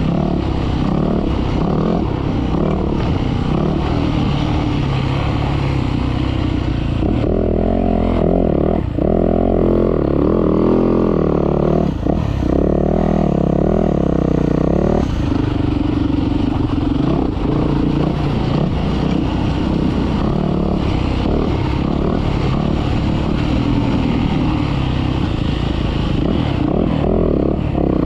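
Motocross bike engine running hard as it is ridden, the revs rising and falling without a break, with the sharpest swings in pitch through the middle.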